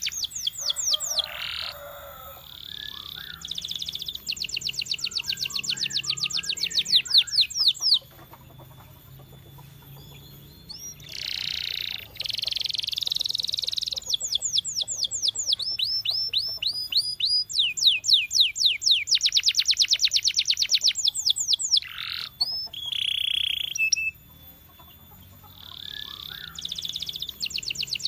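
Domestic canary singing: long, high-pitched trills of rapid repeated sweeping notes in phrases, with a few held whistled notes between them and short pauses.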